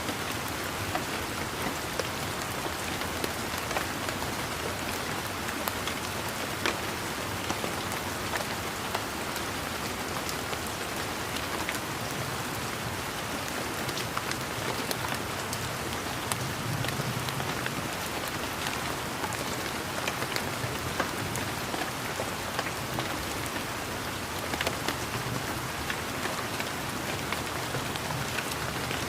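Steady rain falling, an even hiss of rain with many separate drops ticking sharply on surfaces.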